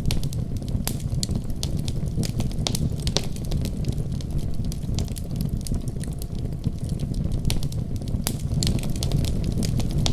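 Wood fire crackling: a steady low rumble of flames with irregular sharp pops and snaps from the burning wood.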